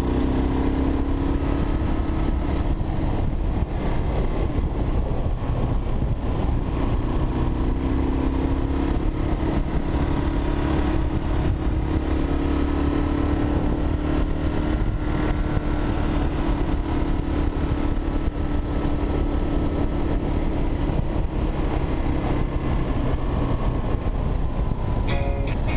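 Kawasaki KLR 650's single-cylinder engine running at a steady cruise, its note drifting slightly up and down, under heavy low wind rumble.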